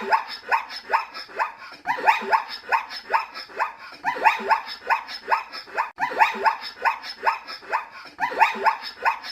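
Dog barking rapidly in short yaps, about four or five a second, each falling in pitch. The barking comes in phrases that restart every two seconds or so.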